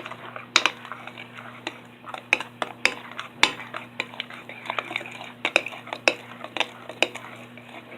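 Spoon stirring glue slime in a container, clicking and knocking irregularly against its sides several times a second.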